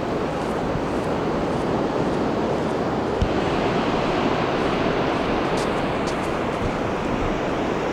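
Pacific Ocean surf washing onto the beach, a steady rushing noise without breaks.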